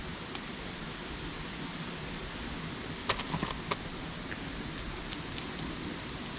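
Steady outdoor hiss with a short run of sharp clicks and taps about three seconds in.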